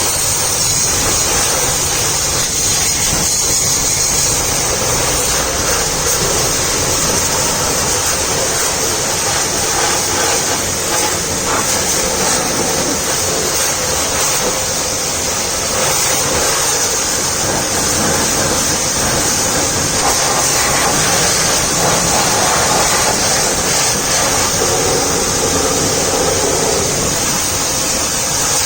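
High-pressure washer running, its water jet spraying with a steady loud hiss.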